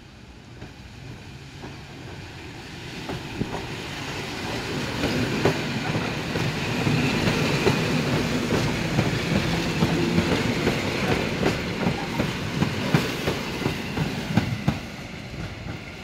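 An EN57-type electric multiple unit approaching and passing close by, the sound building over the first several seconds to a steady low hum with wheels clicking over the rail joints as the carriages go past, then easing off near the end.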